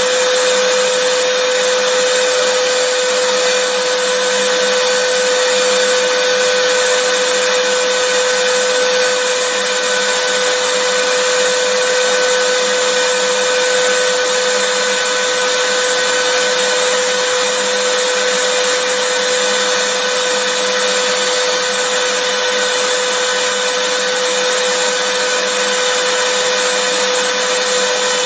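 Vacuum cleaner running steadily: an even motor whine with a constant pitch over a broad rushing hiss, with no change in speed.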